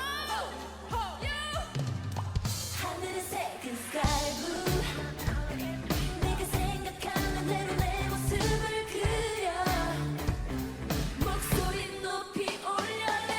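K-pop live concert performance: women singing over a live band, with the full drum beat coming in about four seconds in.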